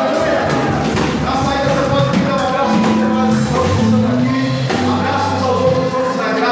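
Live band playing worship music, with held bass notes and drum hits.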